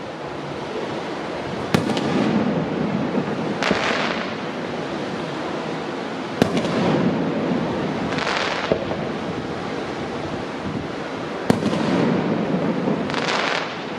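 Fireworks display: aerial shells bursting with about four sharp bangs, each followed by a low rolling echo, with short crackling hisses in between.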